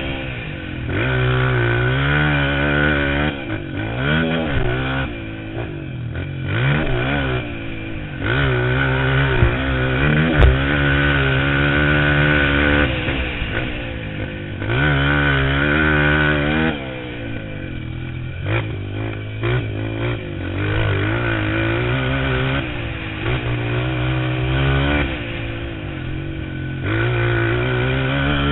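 Motocross bike engine being ridden hard, its pitch climbing and dropping again and again as the throttle opens and shuts. There are a couple of sharp knocks about ten seconds in.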